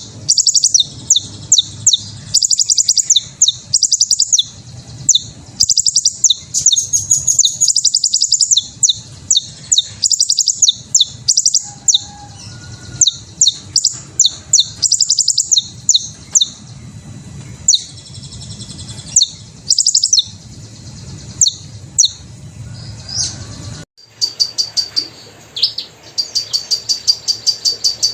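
Hummingbird chirping: very high, rapid runs of short squeaky chips and twitters, repeated over and over. About 24 s in there is an abrupt cut to another recording, where the chips come in a quicker, more even series.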